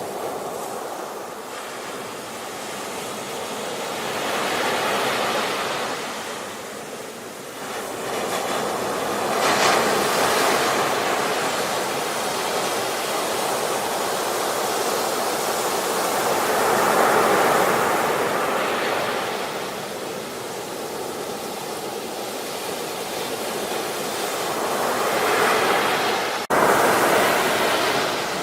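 Ocean waves breaking and washing in, the rush swelling and fading every several seconds. Near the end the sound breaks off abruptly and starts again at once.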